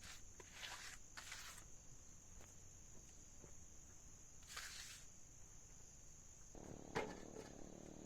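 Near silence with a few faint footsteps, a steady faint high-pitched tone, and a single sharp click near the end.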